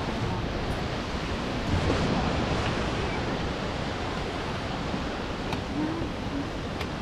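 Steady rushing of river water, an even hiss of flowing water with no break.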